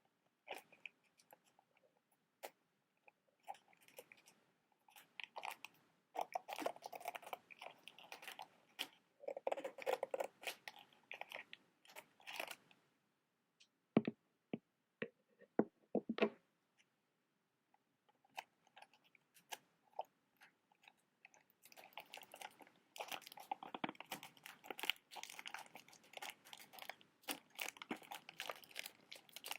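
Close-miked crinkling and scratching from handling a box of matches, in bursts, with a few separate sharp taps near the middle.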